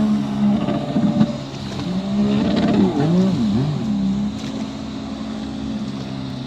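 Sea-Doo Spark personal watercraft engine running on the water. Its pitch swells and dips a couple of seconds in, then it settles to a steadier run.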